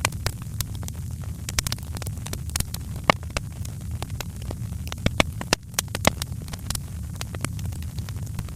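Wood fire crackling in a fireplace: irregular sharp pops and snaps, a few louder ones around three and six seconds in, over a steady low rumble.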